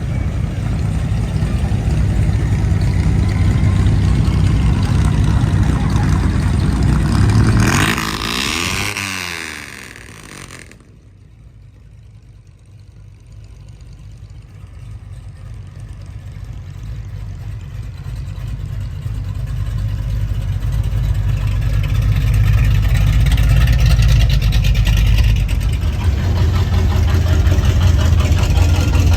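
Vehicle engines running in a passing line of cars, with a loud vehicle going by about eight seconds in. The sound then drops off abruptly and builds back slowly to a steady low rumble.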